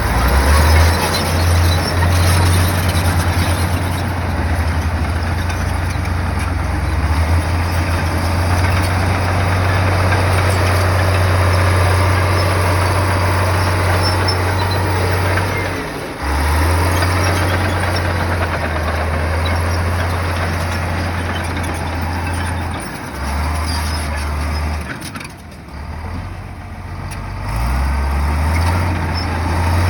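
Heavy bulldozer's diesel engine running under load, a steady low drone with noisy mechanical clatter over it. The drone drops out briefly around halfway and again several times near the end.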